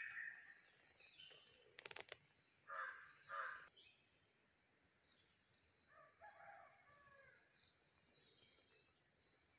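Faint bird calls, two short loud ones about three seconds in and a softer one near the middle, over a steady high-pitched whine, with a brief click about two seconds in.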